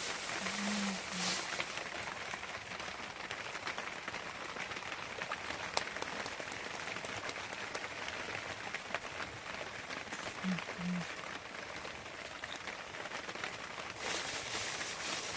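Steady rain falling on a surface, an even hiss dotted with the ticks of single drops. Brief low voice sounds come once near the start and again about ten and a half seconds in.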